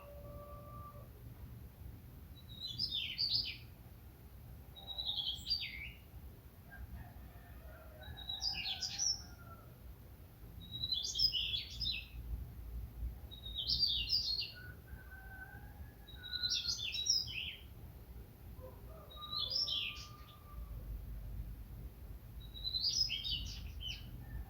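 A songbird singing the same short, high phrase over and over, about every two to three seconds, with fainter whistled calls of other birds between phrases and a low steady background rumble.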